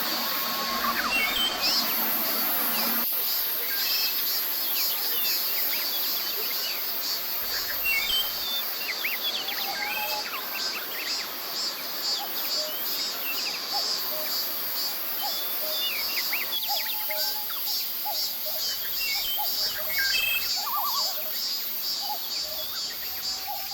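Cicadas singing in a high, pulsing drone, with short bird chirps and whistles scattered through it.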